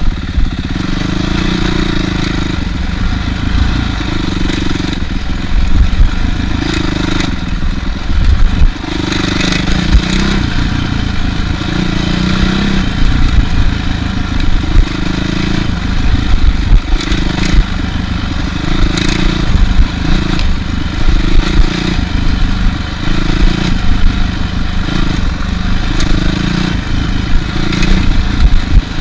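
Honda CRF450R single-cylinder four-stroke dirt bike engine running at slow trail speed, its revs rising and falling every second or two as the throttle is worked, with rattling and knocks from the bike over rough ground.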